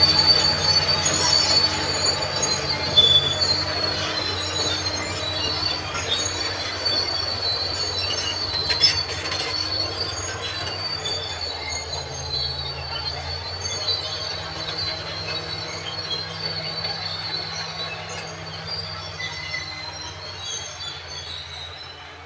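Crawler bulldozer at work: its diesel engine running steadily while the steel tracks squeal and clank, metal on metal. The sound slowly fades toward the end.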